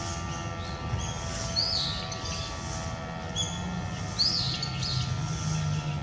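Small bird chirping a short arched call every two to three seconds, with fainter short notes between, over a steady low outdoor rumble.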